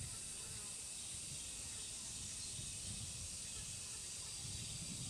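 Steady outdoor ambience: an even high-pitched hiss with a faint low rumble underneath.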